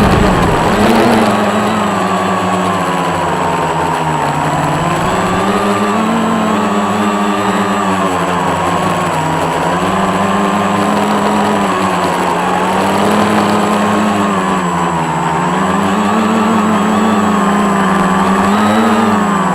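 Scratch-built quadcopter's brushless motors and propellers whining steadily, the pitch repeatedly rising and falling as the throttle changes.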